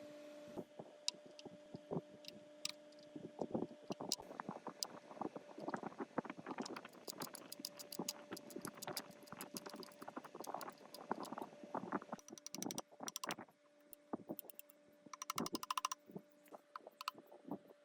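Metal hand tools and parts clinking and knocking at irregular intervals over a faint steady hum, with two short bursts of rapid clicking near the end.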